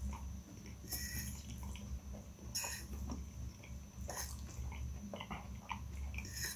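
Close-up chewing of saucy instant noodles with bacon, with four sharp, wet mouth smacks about every second and a half and small clicks between them. A metal fork stirs through the noodles on a glass plate.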